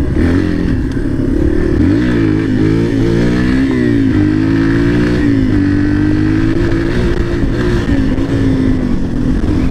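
Dirt bike engine running while riding, its revs rising and falling several times a couple of seconds in, then holding steady.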